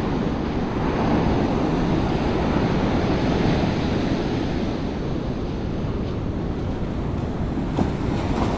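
Steady rush of surf on the beach, with wind buffeting the microphone.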